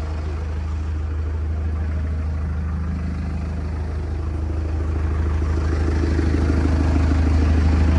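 Backhoe loader's diesel engine running steadily, getting louder from about halfway through as the revs or load build up.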